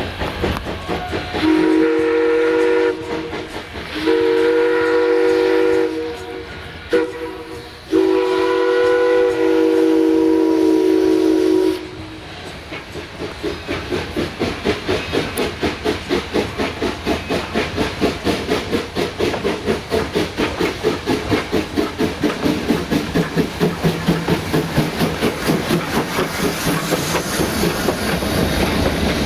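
Steam whistle of D&RGW 2-8-0 locomotive No. 346 sounding long, long, short, long, the grade-crossing signal. Then the locomotive works away with a steady beat of exhaust chuffs, several a second.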